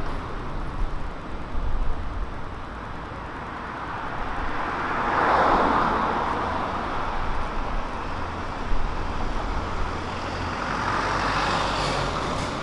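Road traffic: a car passing, its sound swelling and fading about five seconds in, and another passing near the end, over a steady low rumble.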